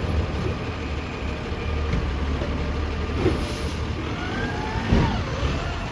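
Garbage truck engine running with a steady low rumble. Near the middle comes a short high hiss, then a whine rising in pitch, and about five seconds in a single knock as the truck works its lift arm after dumping a bin.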